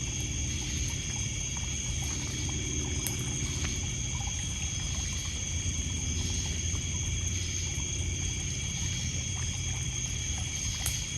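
Night lakeside ambience: a steady chorus of crickets and other insects at several high pitches, over water lapping on a pebble shore, with faint scattered crackles from a wood campfire.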